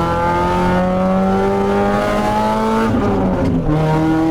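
Tuned VAZ (Lada) four-cylinder engine accelerating, its pitch climbing steadily, then falling at a gear change about three seconds in before pulling again.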